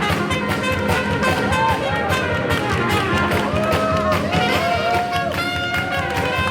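A jazz band playing an upbeat 1920s-style swing number: brass horns play sliding, bending melody lines over a steady, even beat.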